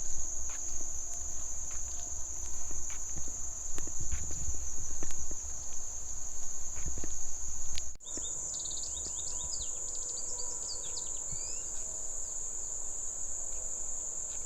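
A steady high-pitched drone of forest insects. For the first eight seconds there is a low rumble with scattered light knocks. After a sudden cut about eight seconds in, birds chirp over the insect drone.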